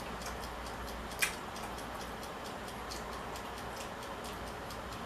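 A person eating: small, irregular mouth clicks and smacks with one sharper click about a second in, over a steady hiss.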